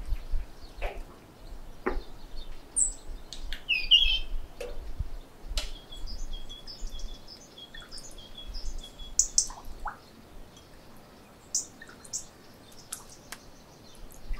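Small birds chirping and tweeting throughout in short high calls, with scattered clicks and knocks from hands handling fish on a wooden board and in a bowl of water.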